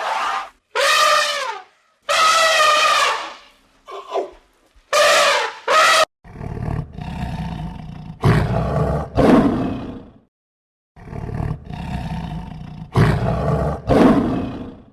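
Animal calls: several loud, drawn-out cries with a clear pitch in the first six seconds, then deep, rough roars in three groups.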